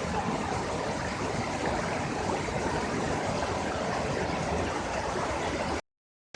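Steady rushing of a waterfall's falling water. It cuts off abruptly to dead silence near the end.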